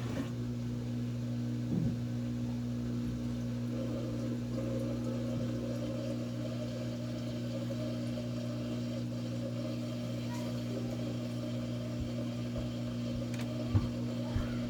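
Samsung top-load HE washer's motor humming steadily as the machine tries to spin out, with a single knock near the end. It is the washer that keeps failing to spin with a "DC" unbalanced-load error.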